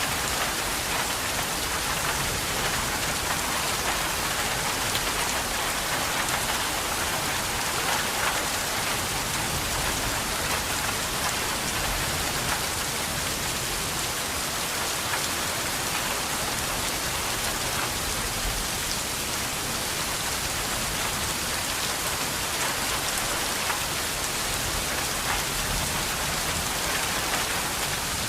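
Steady rain falling and pattering on a surface, an even hiss with scattered drop ticks and no thunder.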